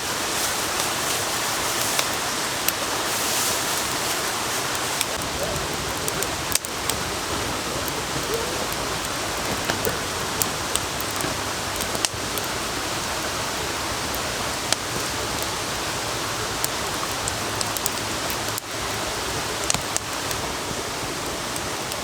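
Steady hiss of heavy rain and rain-swollen running water, with scattered sharp drips tapping throughout.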